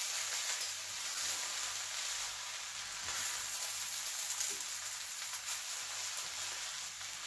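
Fried rice with prawns sizzling in a stainless steel pan as it is stirred with a spatula: a steady frying hiss with a few faint knocks.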